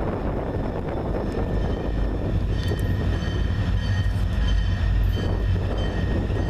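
Diesel freight locomotive approaching with a steady low rumble, and a high ringing in repeated strokes joining about two and a half seconds in.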